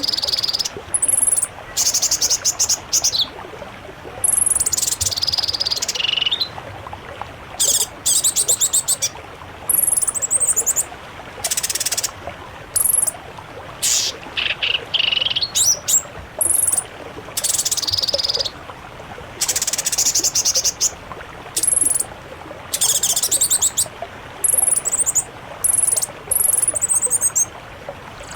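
Songbirds singing, a mix of species: a run of short, high, rapid trills and chattering phrases, each about a second long with brief gaps between them.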